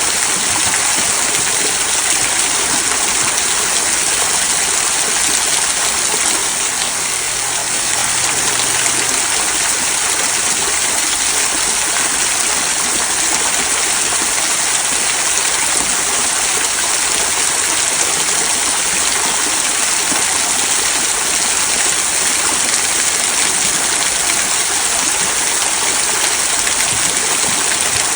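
Small rock waterfall trickling over mossy stones into a stream, a steady, even rush and babble of falling water.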